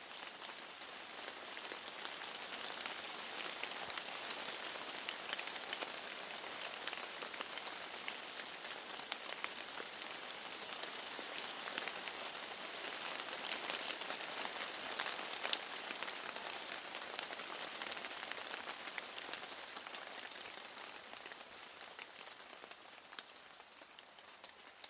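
Steady rain falling on a hard surface, with many sharp little drop taps running through it. It eases off over the last few seconds.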